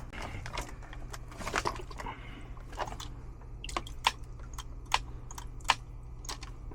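Irregular small clicks and taps of hands handling the condensate pump and its wiring at the furnace, over a steady low hum.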